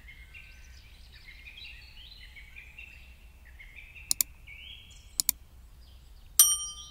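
Faint, high chirping that sounds like birdsong. Two quick double clicks come about four and five seconds in, and a short, bright ringing ding sounds near the end.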